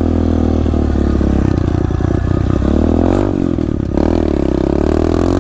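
SSR 125 pit bike's single-cylinder four-stroke engine running while ridden. Its pitch rises as it accelerates about three seconds in, drops briefly, then climbs again.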